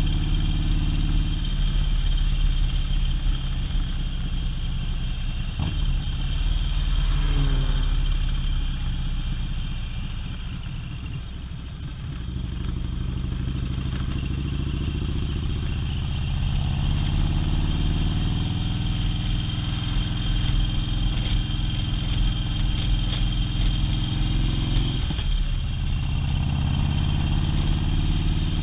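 Harley-Davidson touring motorcycle's V-twin engine running under way, heard from the rider's seat. It eases off and slows about ten seconds in, then pulls away with the pitch climbing as it accelerates, with a brief drop in engine sound near the end at a gear change.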